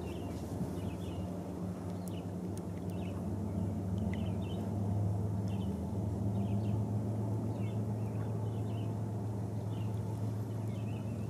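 Small birds chirping in short, high notes scattered throughout, over a steady low hum that is the loudest sound.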